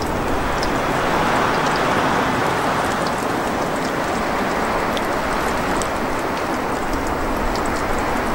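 Food sizzling in a pan over a campfire: a steady hiss with small crackles scattered through it.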